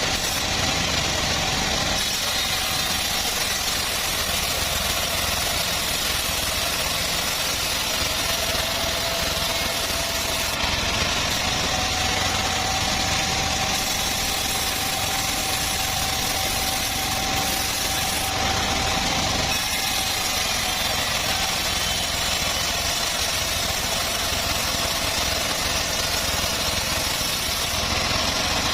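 Homemade engine-driven bandsaw sawmill running steadily, with a faint high whine that rises a little about a third of the way in.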